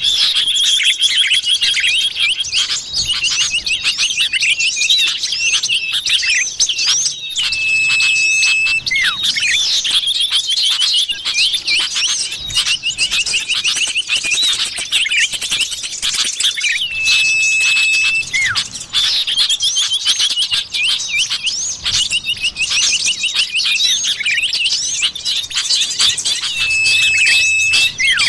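Common iora (cipoh) calls: fast chattering chirps and warbles, broken about every nine seconds by a long, level whistle. The pattern repeats like a loop, a lure track played to draw wild birds in.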